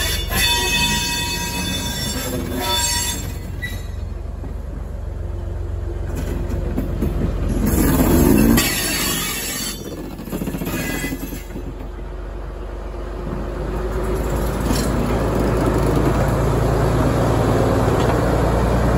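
A brake van and small diesel shunting locomotive rolling slowly by on curved track. The wheels squeal thinly on the curve near the start, and the diesel engine's hum grows louder near the end as the locomotive comes past.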